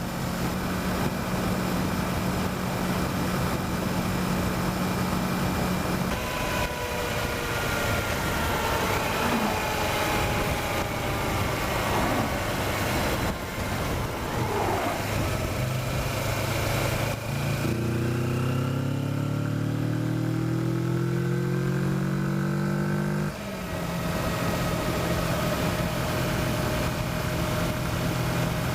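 Kawasaki Versys motorcycle engine running at road speed under steady wind noise. In the second half the engine pitch climbs for about six seconds as the bike accelerates, then drops suddenly and settles back to a steady hum.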